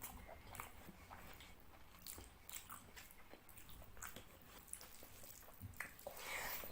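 Faint wet chewing and mouth sounds of a person eating fish curry with rice, with scattered small clicks and smacks. There is a louder, longer wet squelch near the end.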